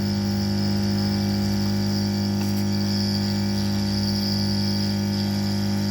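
Electric motor of a household gas compressor (booster) machine running steadily, a constant hum with a faint high whine, as it pulls gas through the supply line.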